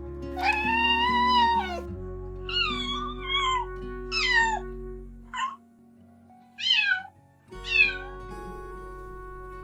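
A cat meowing about six times over soft background music: one long meow, then several shorter ones. The music drops away for a couple of seconds during the later meows.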